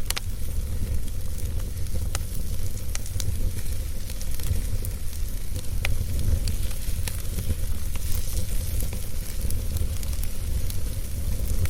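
Wood fire burning in a fireplace: scattered sharp crackles and pops over a steady low rumble and hiss.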